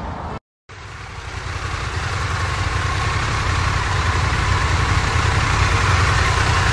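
Motorcycle engine running steadily with a low hum, slowly growing louder, after a brief cut to silence about half a second in.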